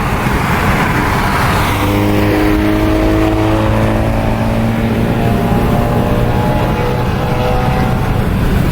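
Volkswagen MK7.5 GTI's turbocharged four-cylinder engine pulling under throttle without a downshift, a steady drone that holds nearly level in pitch, heard from an adjacent moving car over road and wind noise.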